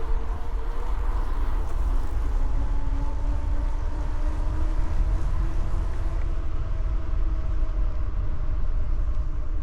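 E-bike motor whining steadily under power, its pitch drifting slowly up and down, over a heavy low rumble of wind on the microphone while riding.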